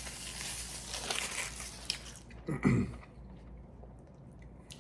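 Close-miked chewing of a mouthful of double Big Mac: wet mouth sounds with small clicks, then a brief hummed murmur a little past halfway, with quieter chewing after it.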